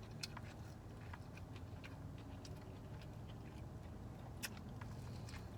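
Close-miked eating: chewing corn on the cob, with small wet mouth clicks and a few sharper crunchy bites, the clearest just after the start and about four and a half seconds in, over a steady low hum.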